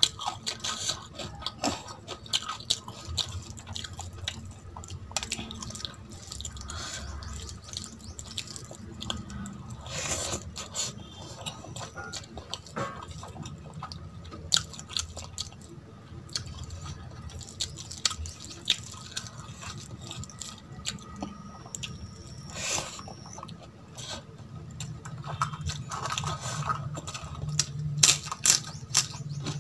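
Close-miked eating: wet chewing and mouth smacks of rice mixed with curry, eaten by hand, with fingers squishing the rice on a steel plate. Many small sharp clicks, busier and louder near the end.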